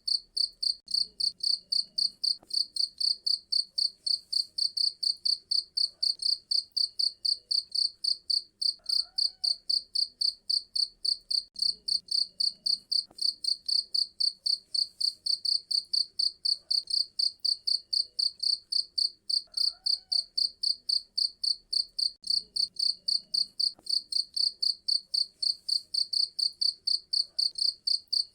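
Cricket chirping steadily, a high-pitched pulse repeated about four times a second without a break.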